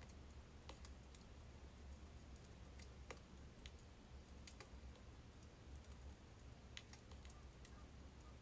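Faint crackling of burning birch firewood: irregular sharp pops and ticks over a low steady hum.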